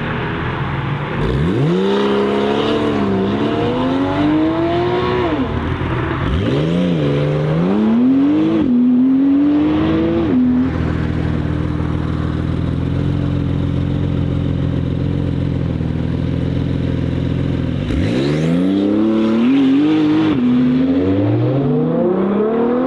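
Sports car engines accelerating hard, revs climbing and dropping back with each gear change, then holding a steady note for several seconds before another car or run climbs through the gears again near the end.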